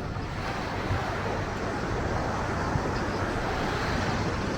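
Steady outdoor rushing noise with no distinct events, the mixed ambience of a beachfront promenade where surf and road traffic both carry.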